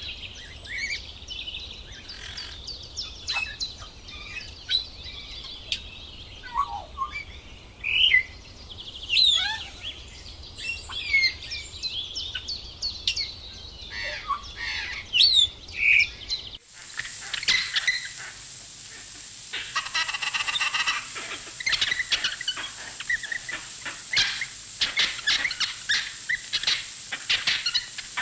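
Several wild birds calling in a forest, with varied chirps, whistles and quick sweeping notes. About two-thirds of the way through the sound cuts abruptly to denser, rapid chattering calls over a steady high-pitched hiss.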